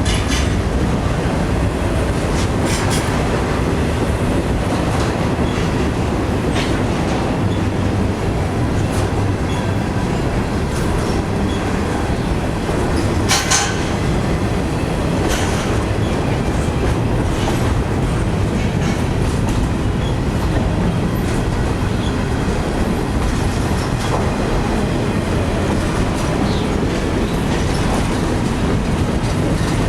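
Norfolk Southern freight train cars rolling past with a steady rumble, the wheels clacking irregularly over rail joints, with one louder clack about halfway through.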